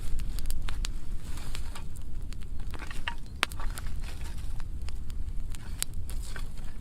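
Burn pile of dry pruning wood burning, crackling with sharp pops scattered irregularly over a steady low rumble.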